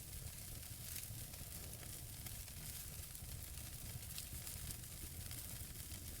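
Wood fire burning in a fireplace: a steady hiss of the flames with a scatter of small crackles and pops from the burning logs, a few sharper ones standing out.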